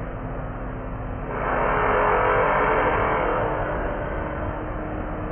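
Freight train of autorack cars rolling across a railroad bridge, a steady rumble that swells louder for about two and a half seconds starting about a second and a half in.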